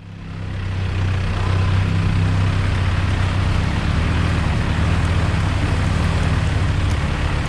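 A 4x4's engine runs steadily under way, a low hum under a rushing road and wind noise. It fades in from silence over about the first second.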